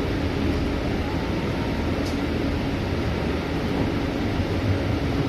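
Inside a moving Scania city bus: steady engine and road drone, with a faint whine that rises and falls as the bus changes speed.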